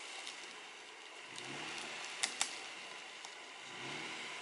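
A vehicle engine revving gently in two low swells as it creeps forward, over a steady hiss. Two sharp clicks come close together about two seconds in.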